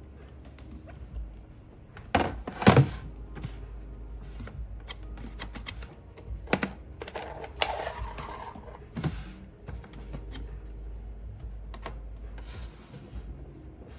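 Irregular clicks and knocks, the loudest a cluster about two to three seconds in, over a low steady hum.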